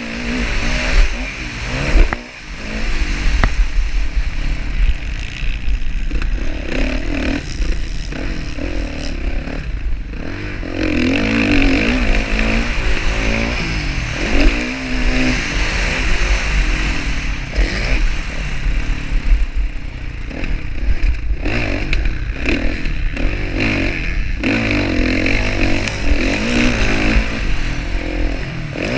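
Motocross dirt bike engines revving up and down, the pitch rising and falling repeatedly as the bikes race around the track.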